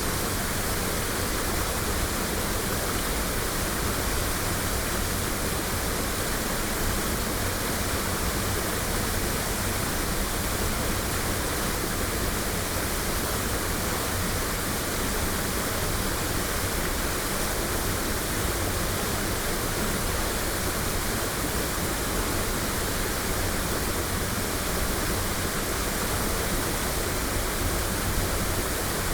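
Waterfall crashing steadily: a constant, even rush of falling water with no breaks or distinct events, recorded binaurally.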